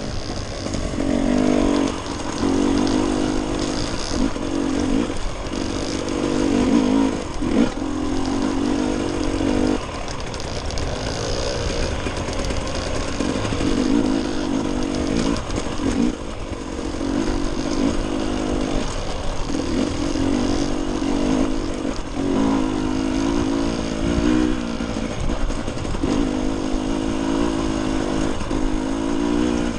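Dirt bike engine running under changing throttle, its pitch climbing and dropping as it revs up and eases off again and again.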